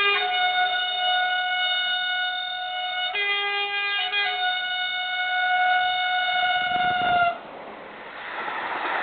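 Train horn sounding one long multi-tone blast of about seven seconds. Its chord shifts briefly a few seconds in, then it cuts off. The running noise of the train rises after it near the end.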